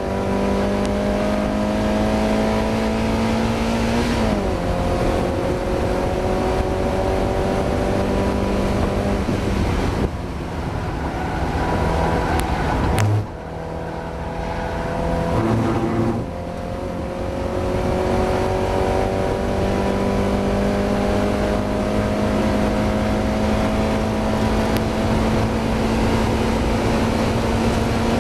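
Mazda MX-5's four-cylinder engine heard from inside the car at race pace, revs climbing steadily through the gears and falling back sharply at shifts or lifts about four, ten, thirteen and sixteen seconds in, then a long slow climb. The engine was running with a misfire in this race.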